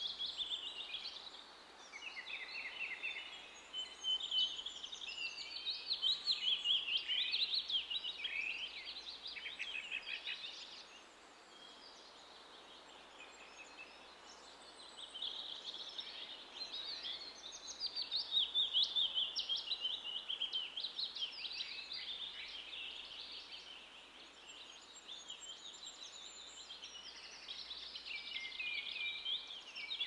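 Songbirds singing in quick, overlapping trills and chirps, fading briefly twice before picking up again.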